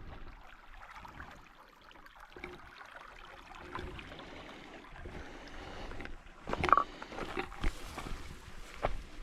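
Faint moving water, then irregular crunching footsteps through brush and leaves starting about six and a half seconds in.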